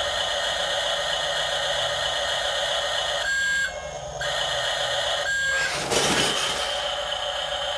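Steady high electronic whine from a remote-control toy truck, with two short beeps about two seconds apart in the middle. A brief rough scraping burst comes just after six seconds.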